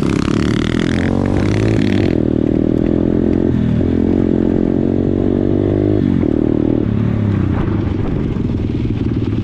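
Pit bike's small single-cylinder engine running, its revs rising and dropping several times.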